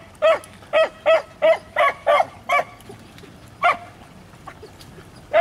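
Beagles barking on a rabbit's scent trail, the hound pack giving tongue as they run the track. Short, high barks come about two or three a second for the first two and a half seconds, then one more after a pause and another near the end.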